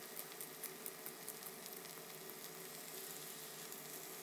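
Aloo keema (beef mince and potato cubes) frying in a nonstick pan: a faint, steady sizzle with small crackles.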